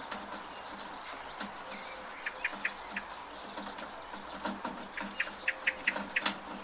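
Steady rain with water dripping and tapping from a gutter, while a bird gives a few quick runs of short chirps, around two seconds in and again near the end.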